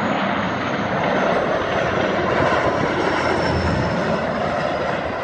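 Airliner coming in to land low overhead, its engines making a loud, steady rush with a faint high whine that slowly falls in pitch.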